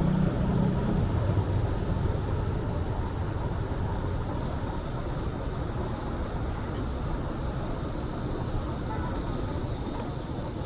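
Road traffic noise on a city street: a motor vehicle's low engine rumble that fades over the first couple of seconds, then a steady hiss of traffic.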